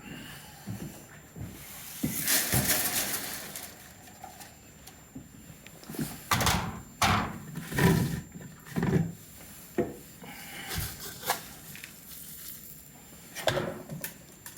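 Pigeon feed mix being handled: a rustle and pour of seed about two seconds in, then scattered knocks and clatters of the feed container and the wooden loft fittings.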